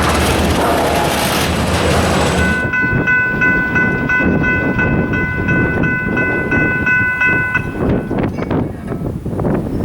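Diesel locomotive air horn sounding one long blast, a chord of several notes held together, from just under three seconds in until nearly eight seconds, over the rumble of a train. Before the horn there is a loud rushing rumble.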